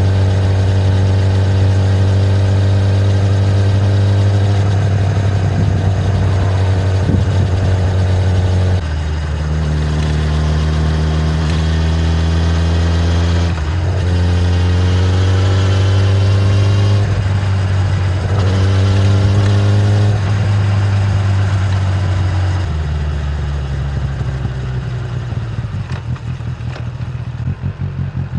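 Kawasaki ZX-10R's inline-four engine through its stock exhaust, running steadily at first. It then pulls through several gears, its pitch climbing and stepping down again at each change. Near the end it drops to a lower, uneven beat as the bike slows.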